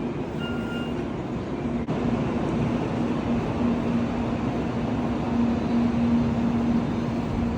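Train running with a steady noise and a low hum. A short electronic beep sounds near the start, and the sound breaks off abruptly about two seconds in before the running noise resumes.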